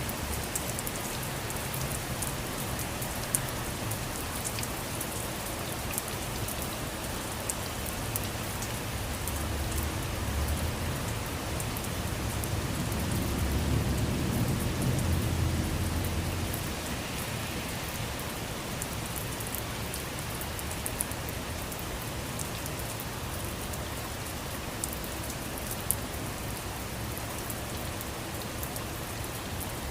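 Steady rain falling on surfaces, with individual drops ticking sharply. A low rumble swells midway and fades out a few seconds later.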